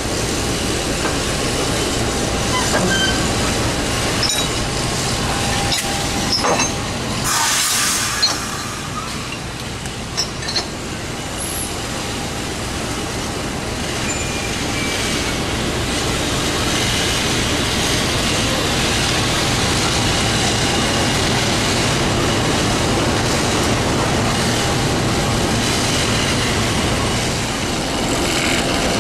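Passenger train noise: a steady rumble throughout, with a brief loud hiss about seven seconds in and a few light clicks a little later.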